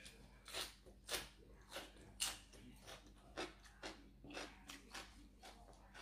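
A person chewing a mouthful of cucumber salad, with soft crunches about twice a second.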